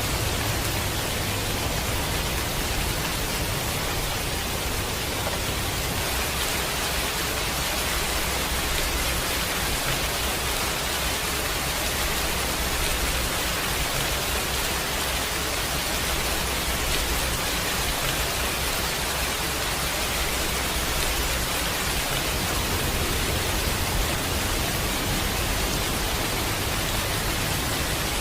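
Steady heavy rain, an even hiss, with a low rumble underneath that grows stronger a few seconds in and eases off near the end.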